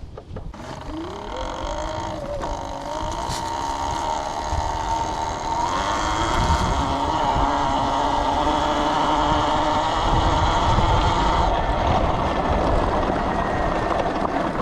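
Electric dirt bike riding off: the motor's whine rises in pitch as it pulls away, then holds steady, over a low rumble of wind on the microphone.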